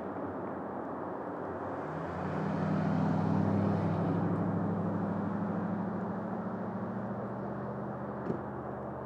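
An engine passing by: a low, steady hum that swells about two seconds in, peaks a second or two later and slowly fades, over a constant background rush. A short click near the end.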